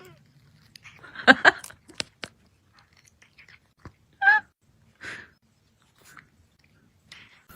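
A dog chewing, with a few loud sharp crunches and clicks, then a brief wavering pitched cry about four seconds in.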